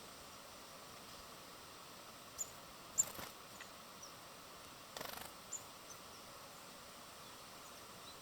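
Small birds at a feeder giving a few short, high chirps over a steady outdoor hiss, with two brief rustling bursts about three and five seconds in, the second a quick rattling run.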